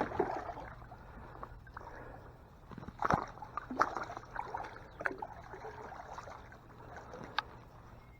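Water sloshing and splashing against a small boat's hull, with several sharp knocks and clatters on the boat at irregular intervals, over a faint steady low hum.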